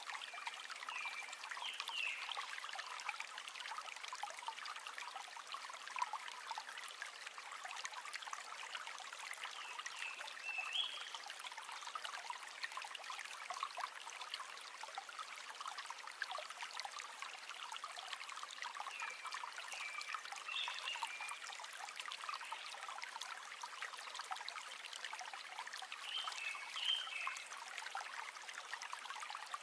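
A river flowing and trickling steadily. Short, high chirping calls break in briefly about four times.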